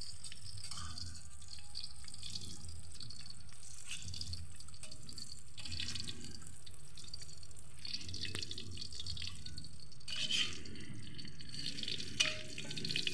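Tofu frying in oil in a steel wok over a fire of dry bamboo and wood: steady sizzling and crackling, with a metal spatula turning the pieces in the wok now and then.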